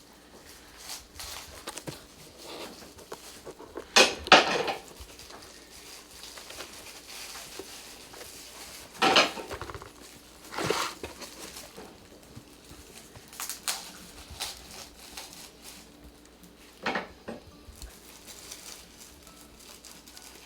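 Cats playing and clawing at things, making scattered knocks, scrapes and clinks, with louder clusters about four seconds in, about nine seconds in and near the end.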